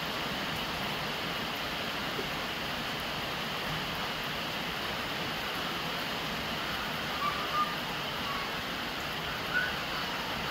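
Steady rain, with runoff pouring from a plastic downpipe and splashing onto the lid of a large glazed clay water jar.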